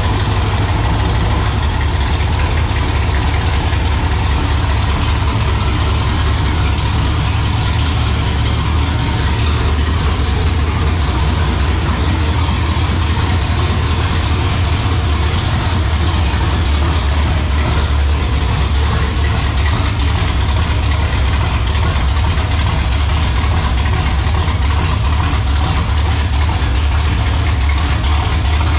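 Small-block Chevy V8 out of a 1959 Corvette running steadily at idle on its first fire-up after being installed in the car.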